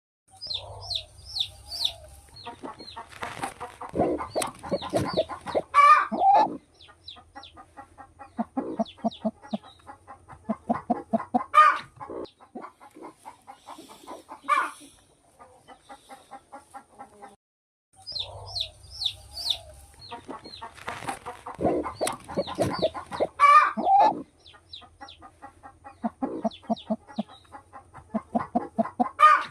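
Flock of native country chickens clucking in quick runs of short calls, with series of high chirps and a few louder calls standing out. There is a brief break just past halfway, after which the same stretch of clucking seems to repeat.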